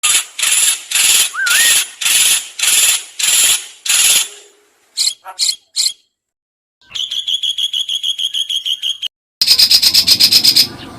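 Spliced recordings of songbird calls. First come seven scratchy calls about half a second apart, then three short sharp notes. After a brief gap there is a fast, even trill, then a louder and faster chatter, each segment starting and stopping abruptly.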